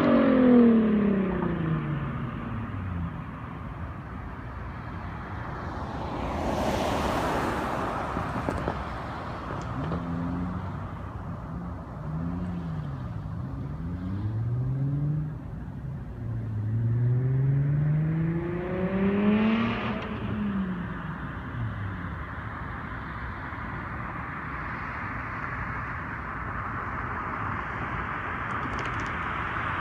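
Nissan 350Z's VQ35HR V6 through a straight-piped exhaust: the revs fall away at the start, then it is revved up and down several times, with a longer rise in pitch past the middle. A broad whoosh comes about seven seconds in, and near the end a steadier hum takes over.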